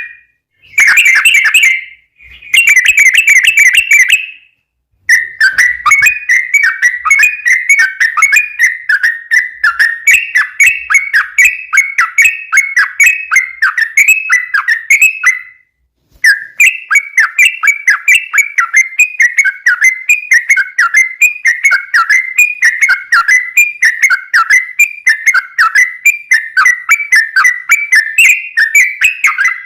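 Yellow-vented bulbul (trucukan) song, loud and whistled. It opens with two short, dense bursts of chattering notes, then runs into long strings of quick repeated notes, about two to three a second, with one brief break about halfway. This is the long-rolling "ropel" song played as a lure to get other bulbuls to answer.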